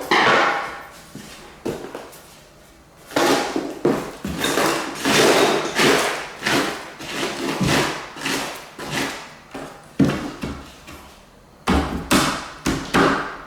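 Irregular wooden knocks and bangs, a dozen or so sharp hits at uneven spacing, from work on a wooden door jamb.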